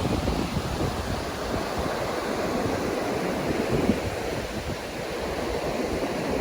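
Ocean surf washing on a beach, with wind buffeting the microphone in uneven gusts.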